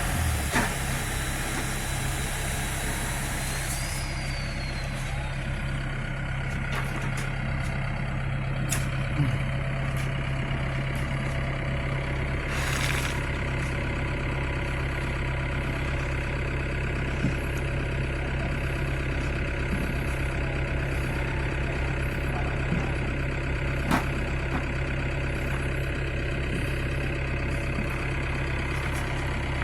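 Heavy diesel engine of construction machinery running steadily, with a few sharp isolated knocks and a short hiss of air release about 13 seconds in.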